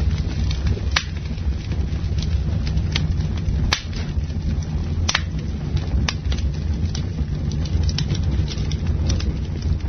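Campfire burning: wood crackling and popping in sharp irregular snaps, the louder ones about a second in, near four seconds and at about five seconds, over a steady low rumble.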